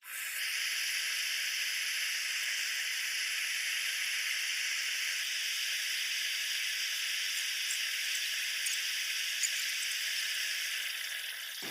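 Gas welding torch flame hissing steadily while brazing a refrigerator's condenser pipe joint.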